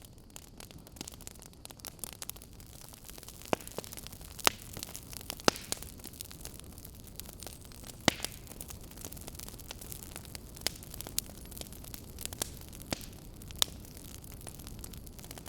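Wood fire crackling in a fireplace: irregular pops and snaps, a few sharper ones standing out, over a steady low hiss.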